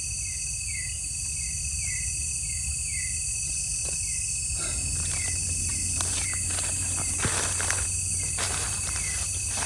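Night-time forest insect chorus: a steady high-pitched shrilling with a short falling chirp repeating about once a second. A few soft rustles come in the second half.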